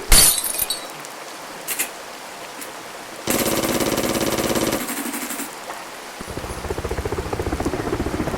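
Sound-effects sequence over a hiss of rain: a sharp crack at the start, a loud burst of rapid, evenly spaced hammering a few seconds in that lasts about a second and a half, then a rhythmic chopping that grows louder toward the end, like a helicopter approaching.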